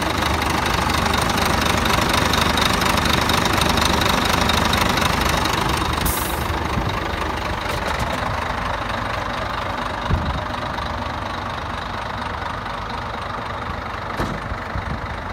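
Diesel engine of a three-axle Scania hook-lift truck idling steadily. There is a short hiss about six seconds in, and single knocks near ten and fourteen seconds.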